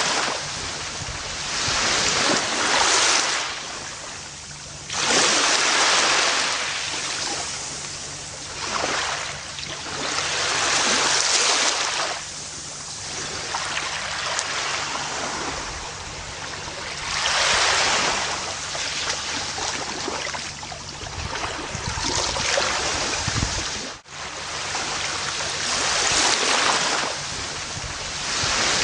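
Ocean waves breaking on a beach, each wash swelling and fading every few seconds. Near the end the sound drops out for an instant.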